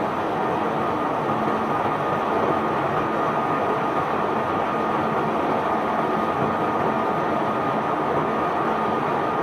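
Barge-unloading machinery running steadily as bulk cargo flows off, a continuous rumble and rush with a thin steady whine above it.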